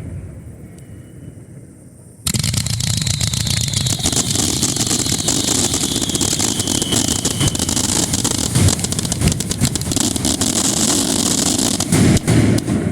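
Starmine fireworks finale heard close to the launch site: the echoes of earlier shells fade for about two seconds, then a dense rapid-fire barrage of launches and crackling bursts starts abruptly and runs on as a continuous roar of sharp cracks, with a faint falling whistle in it early on.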